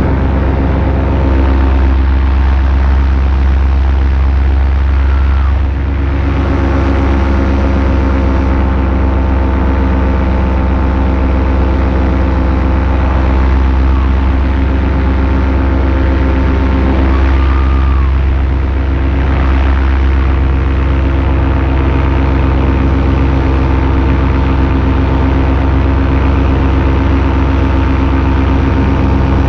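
Paramotor engine and propeller running steadily in flight at a constant throttle. The level dips briefly about six seconds in.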